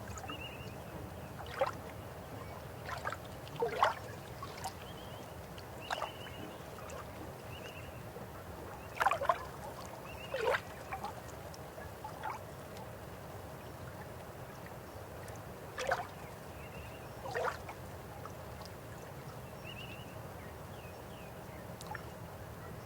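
River water flowing steadily, with about a dozen short gurgles and splashes standing out, the loudest about 4 and 9 seconds in. Faint high chirps sound now and then above the water.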